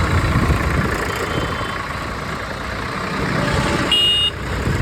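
Swaraj tractor's diesel engine running steadily, a dense low rumble. A short, high-pitched beep sounds about four seconds in.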